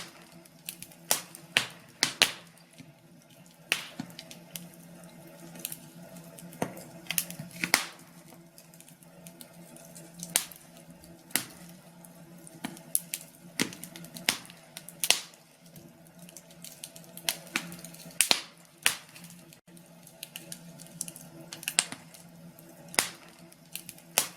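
Wood fire crackling in a fireplace: irregular sharp pops and snaps, with a faint steady low hum underneath.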